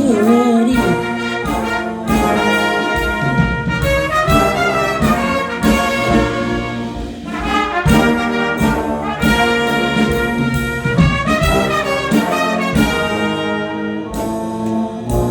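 Big band brass section playing an instrumental passage of a jazz tune, full chords from the horns over the band, with a few bending notes along the way.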